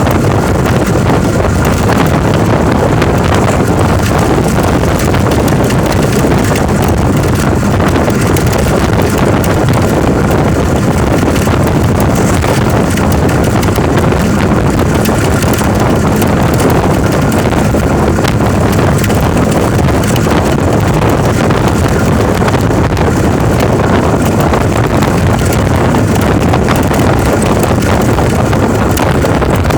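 Loud, steady rumbling noise with wind buffeting the microphone, and a faint steady whine above it.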